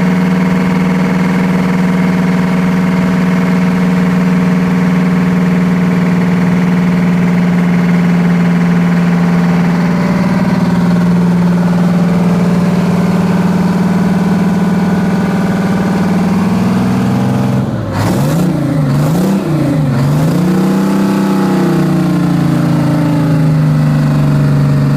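Detroit Diesel 12V-71 TI two-stroke V12 marine diesel, freshly rebuilt, running cold after starting. It runs steadily, then its speed swings up and down a few times about three quarters of the way through before settling at a lower speed.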